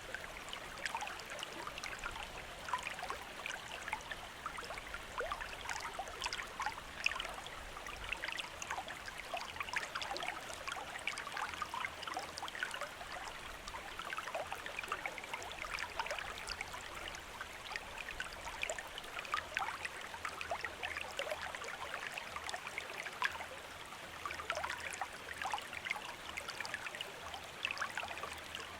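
A stream of running water babbling and trickling steadily over stones, with many small splashes and gurgles.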